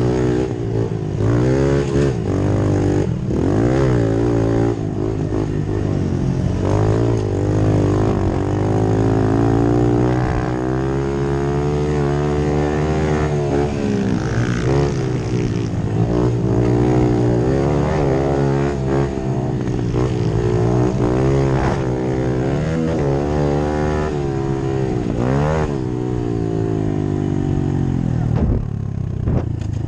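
Several pit bike engines racing, revving up and down, their pitch rising and falling every second or two as they overlap one another.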